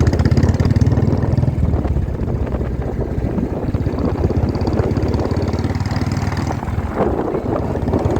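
Motorcycle engine running steadily while riding, with a rushing noise over it.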